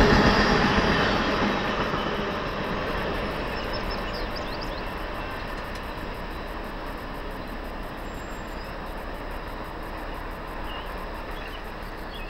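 Freight train of ethanol tank cars rolling away after its end has passed, its rail noise fading over the first few seconds to a lower steady rumble.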